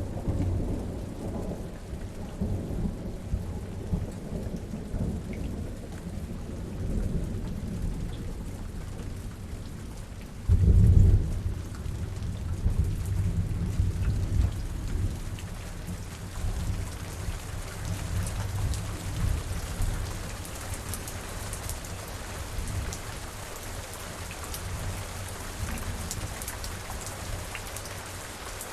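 Steady rain with rolling thunder, and one loud thunderclap about a third of the way through. The thunder rumble then fades, leaving the rain and the patter of drops.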